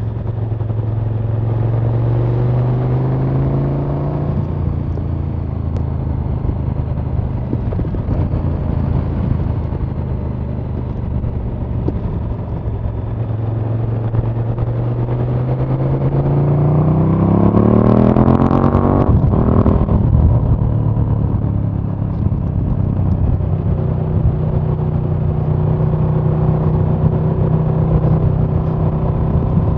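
KTM 1290 Super Duke R's 1301 cc V-twin running under way, heard raw on board without wind noise. It holds a steady pitch, then about two-thirds of the way in accelerates with a long rising pitch that cuts off sharply as the throttle shuts or a gear is changed, before settling back to steady running.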